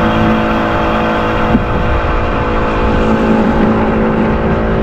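A motor running steadily at an even pitch, a continuous hum with many overtones.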